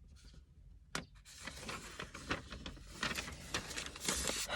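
Paper mail and coupon flyers being handled and rustled: a sharp click about a second in, then light irregular crinkling that builds to a brief rustle near the end.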